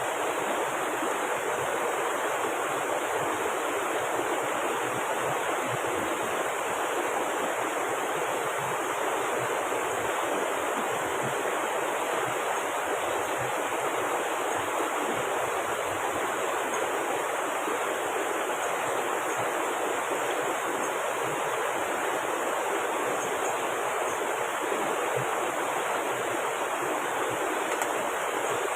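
Steady rush of heavy rain together with the flowing river, an even wash of water noise with no break.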